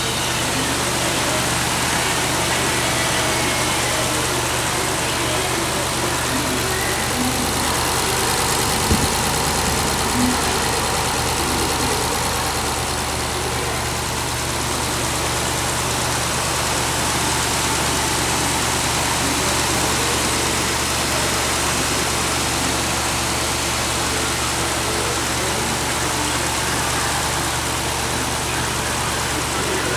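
A 6.4-litre HEMI V8 from a 2022 RAM 2500 idling steadily, with two brief clicks about nine and ten seconds in.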